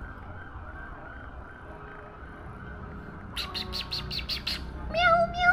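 House cat chirping in a quick run of short calls a little past halfway, then meowing near the end.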